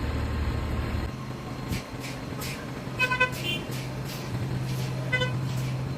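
Steady low drone of a heavy truck's engine, with a couple of short vehicle horn toots about halfway through and one more near the end.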